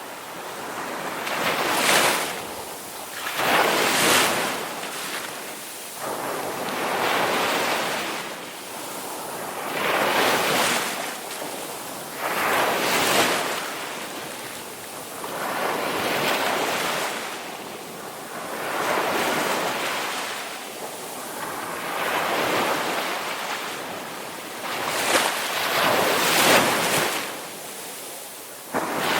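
Ocean waves breaking and washing on a shore, each wash swelling and falling away every two or three seconds.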